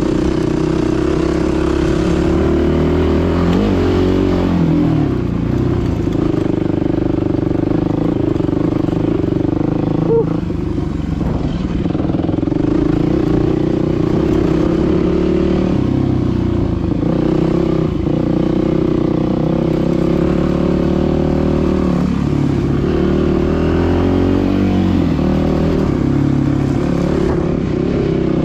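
Dirt bike engine running under way, its revs rising and falling as the throttle is worked.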